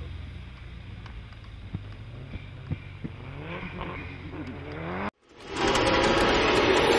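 Mitsubishi Lancer Evolution IX rally car's turbocharged four-cylinder engine revving hard as the car slides through snow, its pitch climbing in several quick rises. About five seconds in the sound cuts off abruptly, and a loud rising noise swells up.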